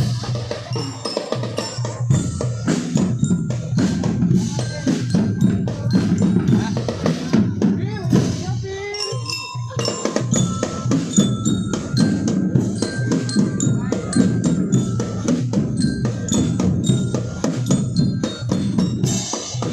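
Drums and percussion playing: a dense, steady stream of bass and snare drum strokes with a high melody over them.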